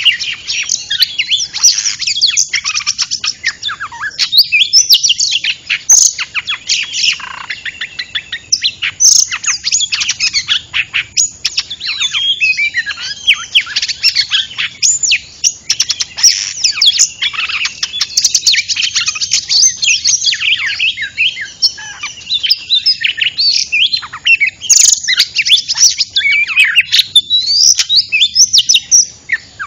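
Oriental magpie-robin singing a rapid, unbroken run of varied chirps, whistles and trills, played as a lure call for trapping.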